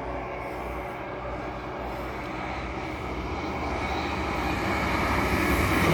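Class 159 diesel multiple unit approaching, its underfloor diesel engines droning steadily and growing gradually louder as it nears.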